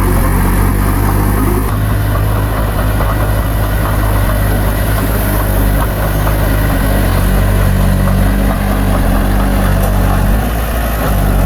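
Heavy earthmoving machine's diesel engine running steadily at an even speed, its low note unchanging throughout.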